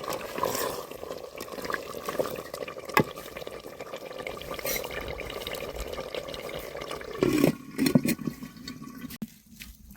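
Water splashing and running, with a sharp knock about three seconds in and a cluster of louder knocks near the end.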